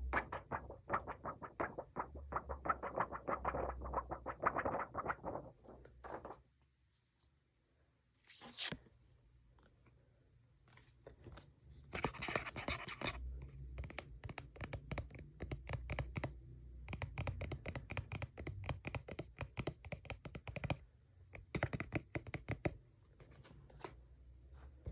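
Close-miked fingernail tapping and scratching on makeup packaging, in quick runs of taps. It pauses briefly about a quarter of the way in, with a short scratch after the pause, then the taps and scratches resume.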